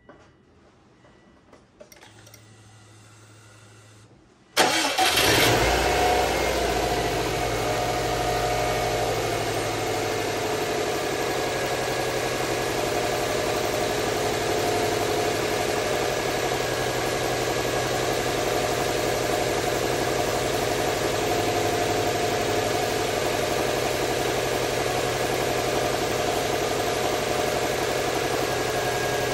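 2002 Subaru WRX's 2.0-litre turbocharged flat-four starting from cold: after a few faint clicks and a low hum, it fires suddenly about four and a half seconds in, then settles into a steady fast cold idle a little over 1,000 rpm.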